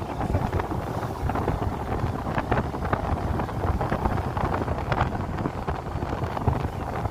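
Wind buffeting the microphone on a moving motorcycle, a steady rushing noise that swells and crackles, with the bike's engine and road noise underneath.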